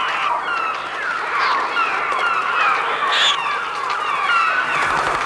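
A dense chorus of many birds crying and squawking at once, with short, overlapping calls that mostly slide downward in pitch; this is the shrieking bird-cry soundtrack that stands in for music in the film.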